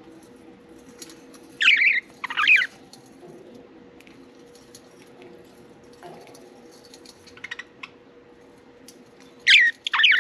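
Budgerigars giving loud, sharp chirps in two quick pairs, one pair about two seconds in and another near the end. Faint scattered clicks and a low steady hum lie between the calls.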